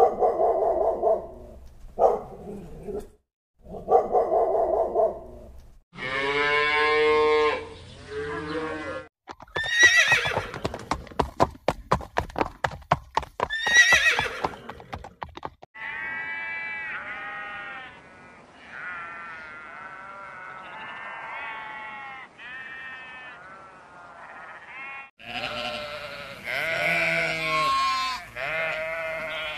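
A run of different animal calls: a dog barking three times, then a horse whinnying with a fast shaking trill, then quieter repeated animal calls, and sheep bleating near the end.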